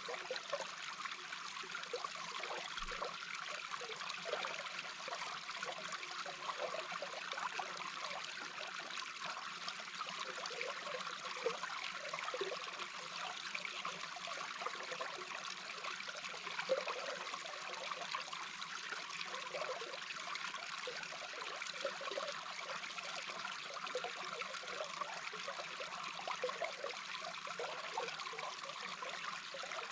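A small brook's flowing water heard underwater: a steady rush with many brief, irregular bubbling sounds.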